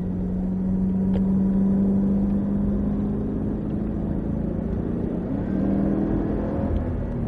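2012 Cadillac CTS-V's supercharged 6.2-litre V8 pulling hard under acceleration onto a race track, its engine note climbing slowly, with a change in pitch about five seconds in.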